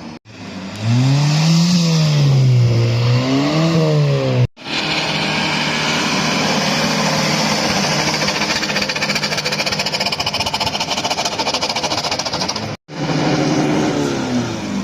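Car engines revving hard. The pitch rises and falls twice in quick blips, then there are several seconds of steady, raspy, high-revving exhaust noise, then another rev. The sound breaks off abruptly between the parts.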